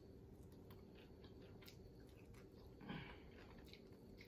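Faint chewing and biting on a fried chicken wing: soft scattered mouth clicks and crunches, with one slightly louder chew about three seconds in.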